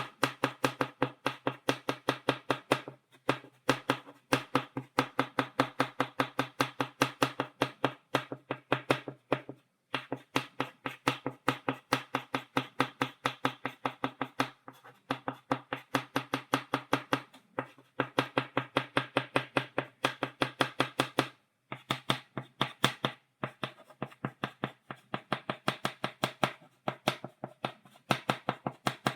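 Chalk tapped against a blackboard in quick dotting strokes, about four to five sharp taps a second, in runs broken by short pauses.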